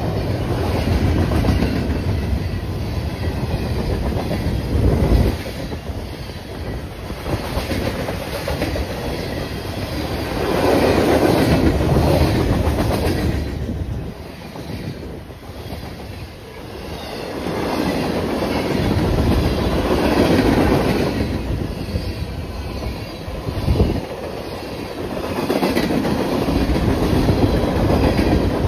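A train rolling past, its railcar wheels clacking over the rail joints, the noise swelling and fading again and again as the cars go by.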